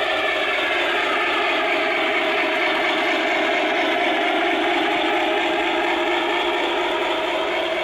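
O gauge model train running on its track, with a steady whir.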